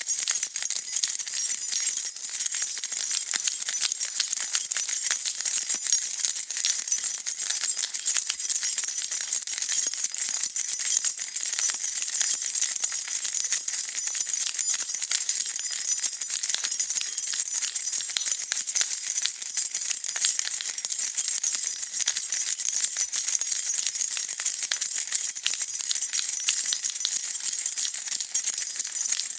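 A bunch of metal keys jingling continuously: constant dense clinking and rattling as the keys are shaken, with no pauses.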